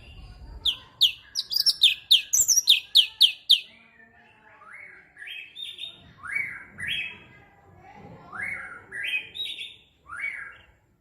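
Cucak cungkok singing: a quick run of a dozen or so sharp, high downward-sweeping notes for about three seconds, then slower, lower phrases of notes that rise and fall, in small groups.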